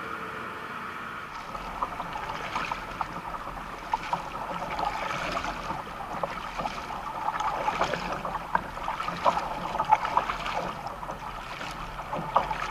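Water sloshing and splashing around a kayak, with many small irregular knocks and taps starting about a second and a half in.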